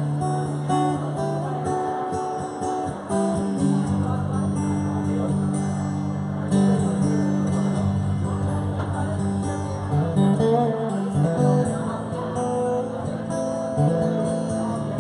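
Live band music led by a strummed acoustic guitar, with a steady bass line underneath and no singing.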